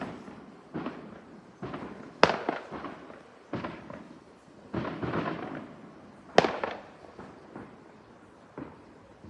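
Fireworks exploding: about eight scattered bangs at uneven intervals, the two loudest a little past two seconds and past six seconds, each trailing off in echo.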